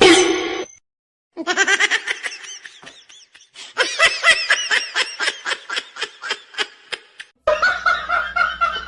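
High-pitched laughter in a long run of quick, even pulses, about five a second. Near the end it gives way to a held, steady voiced sound.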